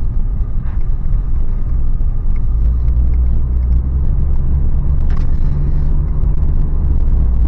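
Toyota 4Runner's 4.0-litre V6 and road noise heard from inside the cab while driving: a steady low rumble that swells slightly a few seconds in.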